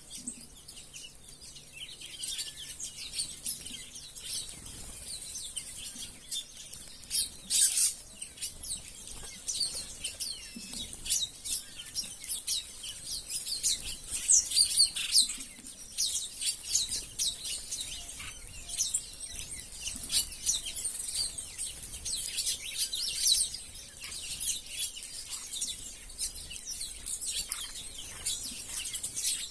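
A crowd of wild birds chirping at once, many short overlapping calls in a busy, continuous chatter, over a steady high hiss.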